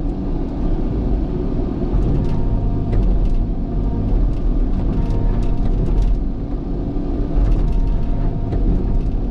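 Diesel engine of a heavy earthmoving machine running steadily under working load, with a few light clicks and knocks from the work.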